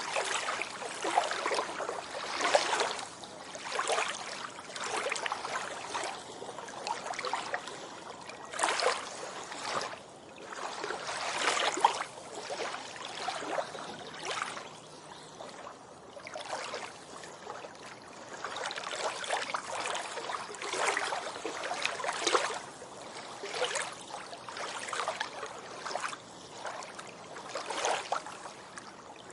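Small sea waves washing onto a beach, a splashing surge every second or two with little deep rumble.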